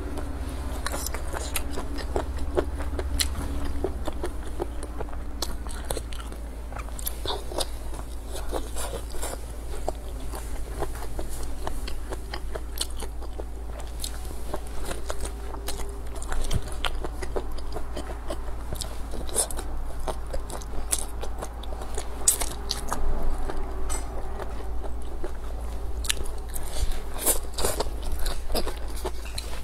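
Close-up chewing and biting of braised squid and greens, with many small wet clicks and crackles from the mouth. A steady low hum sits underneath.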